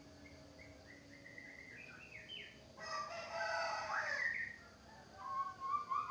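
White-rumped shama singing: runs of short whistled notes stepping up in pitch, a louder, fuller phrase about three seconds in, and another rising run near the end.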